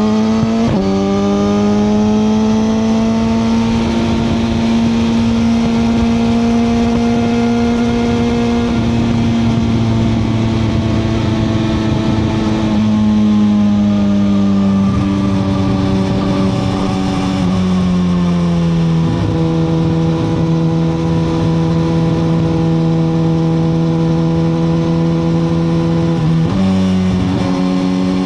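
A 2021 Suzuki GSX-R1000R's inline-four engine under way, with wind rush. Just under a second in the engine note climbs and then drops abruptly, an upshift. After that it holds steady revs at cruise, eases lower twice about halfway through, and near the end dips briefly before jumping back up.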